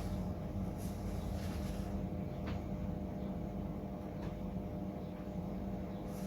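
A steady low machine hum with a few faint ticks or taps scattered through it.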